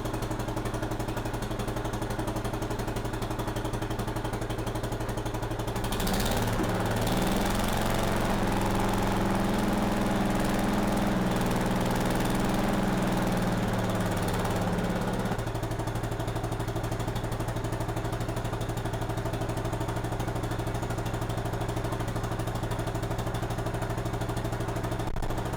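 1953 Economy Country Squire tractor's Briggs & Stratton engine running on its own fuel system. It idles steadily, is revved up and held higher for several seconds from about six seconds in, then settles back to idle.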